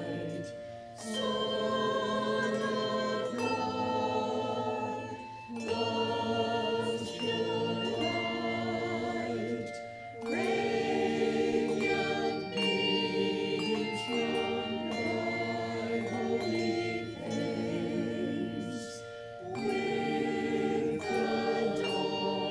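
Church choir singing, in long sustained phrases with brief breaks between them.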